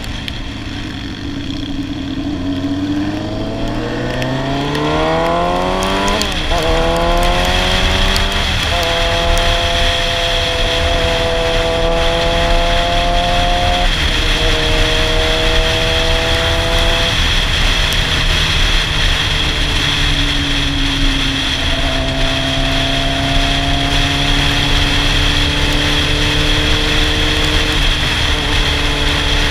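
Sportbike inline-four engine pulling up through the gears, its pitch climbing over the first few seconds with shifts about six and eight seconds in, then running steadily at road speed with a few more gear changes, over constant wind rush.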